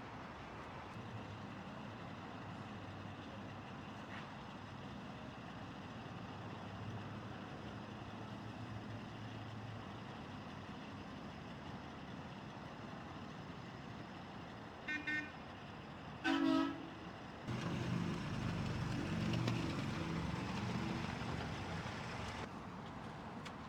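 Diesel engines running steadily, then two short vehicle-horn toots about a second and a half apart, the second louder and longer. A louder engine run follows for about five seconds before easing off.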